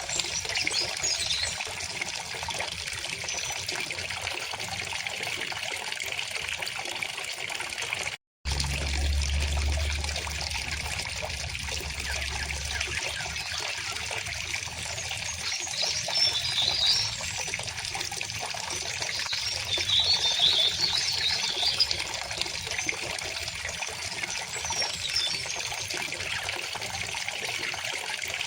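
River water flowing steadily with a trickling sound, and birds chirping now and then above it. The sound cuts out for an instant about eight seconds in, followed by a low hum for a few seconds.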